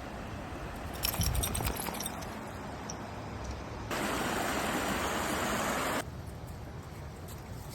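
Stream water rushing steadily, with a few splashes about a second in and a louder stretch of rushing water from about four to six seconds in that starts and stops abruptly.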